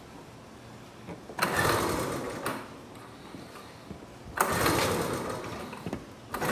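Suzuki engine being cranked over in two tries of about a second and a half each, without catching: it will not fire, and starter fluid is needed to get it going.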